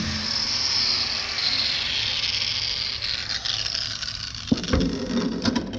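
Angle grinder with a cutting wheel grinding the surface of an aluminum piece to clean it for welding, a steady high hiss that fades after about four seconds, with a sharp knock about four and a half seconds in.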